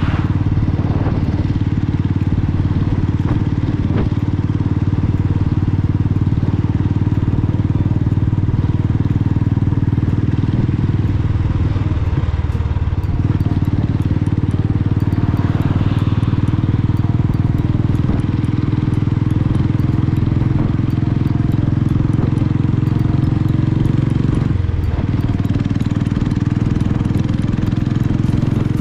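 Royal Enfield Bullet's single-cylinder four-stroke engine running steadily at cruising speed. There is a brief dip in the note near the end, after which the pitch climbs slowly.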